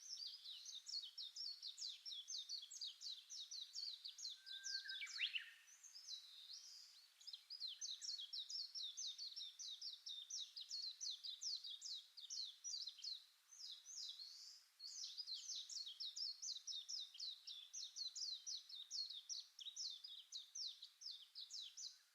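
A small songbird calling in a fast, nearly unbroken run of short, high, falling chirps, about five a second, pausing briefly twice. One louder call comes about five seconds in.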